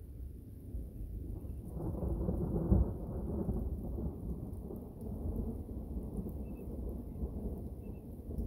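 Thunder rumbling in a thunderstorm: a low roll that swells about two seconds in, is loudest about three seconds in, then rolls away into a steady low rumble.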